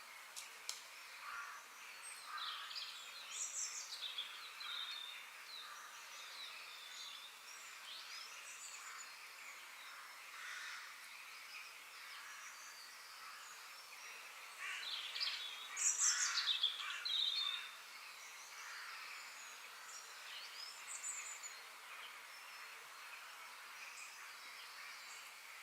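Several birds singing and calling, with short sweeping chirps over a steady background hiss and the busiest, loudest burst of song about fifteen to seventeen seconds in.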